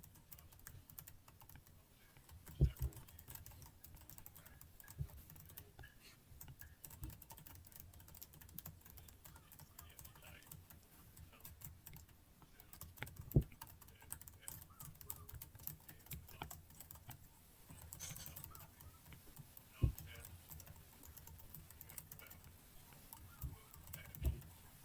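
Computer keyboard keys clicking in an irregular, unhurried pattern, with four louder knocks spread through.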